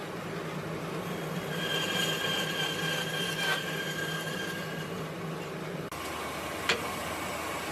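A machine running steadily with a low hum and a high, steady whine that swells in the middle, then a single sharp click near the end.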